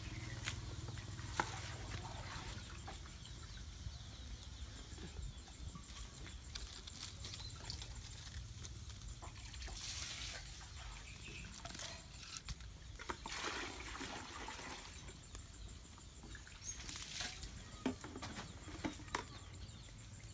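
Lemongrass sizzling in a hot wok over a wood fire, a faint steady hiss with scattered crackles and a few louder surges of hiss.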